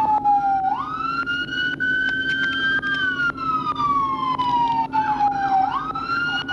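Police car electronic siren wailing: the pitch slowly falls for about three seconds, sweeps quickly back up about a second in and again near the end, then holds high before falling again, over a steady low hum.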